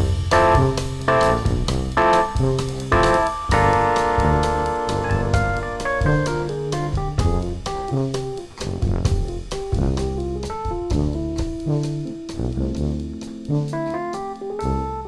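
Instrumental jazz from a small band: keyboards and drum kit keep a steady beat over a low bass line, with held chords a few seconds in.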